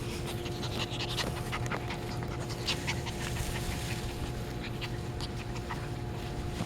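Puppies panting, with many short, scattered high-pitched sounds, over a steady low hum.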